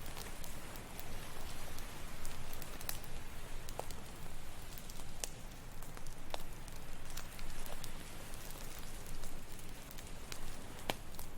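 Campfire crackling, with scattered sharp pops of burning wood over a steady rushing wash of ocean surf.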